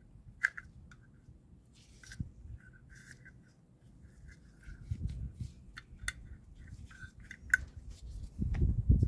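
Hand work on car parts: scattered small clicks and short squeaks, with louder low rumbling handling noise building near the end.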